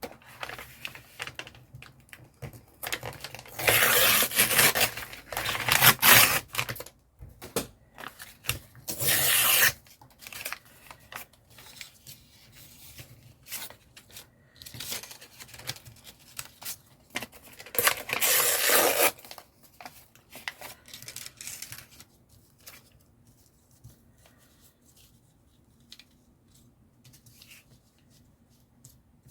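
Paper and card being handled: three longer, louder bursts of rustling or tearing, a few seconds in, around nine seconds and around eighteen seconds, with scattered small taps and rustles between that thin out near the end.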